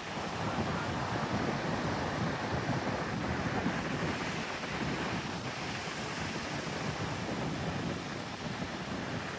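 Strong wind buffeting the microphone in steady gusts, over the rushing of surf breaking on the beach.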